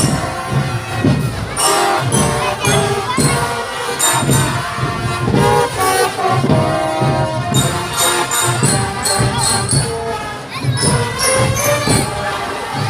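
Marching drum band playing: drum strokes in a steady beat under a pitched melody, with high bell-like notes and jingles on top.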